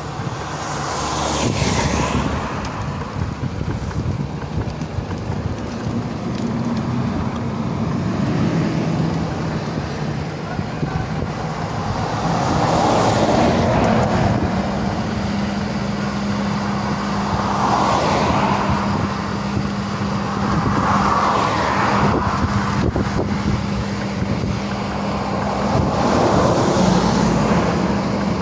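A motor vehicle's engine running steadily under a heavy outdoor rumble, with the noise swelling several times.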